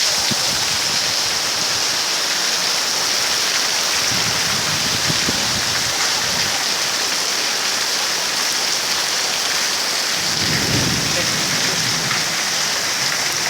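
Heavy rain pouring steadily, with a low rumble swelling twice, about four seconds in and again about ten seconds in.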